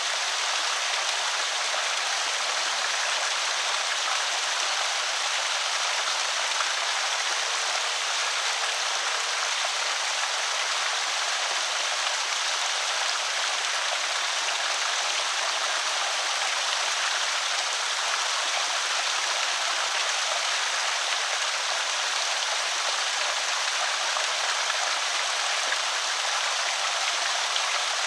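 Creek water spilling over a small spillway: a steady, even rush of splashing water.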